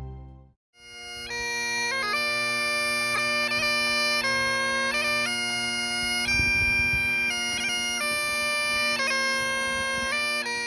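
Bagpipe music: a steady drone under a melody that steps between long held notes. It comes in after a brief gap of silence just under a second in, once the earlier music has stopped.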